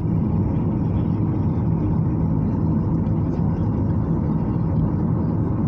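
Steady low rumble of a Boeing 737-800 heard from inside the passenger cabin.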